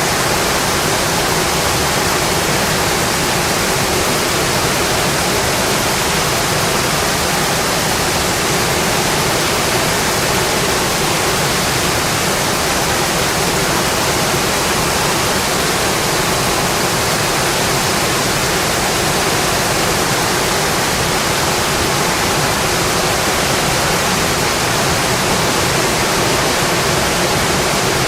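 Steady, dense rainfall, an even hiss with no distinct drops or thunder standing out.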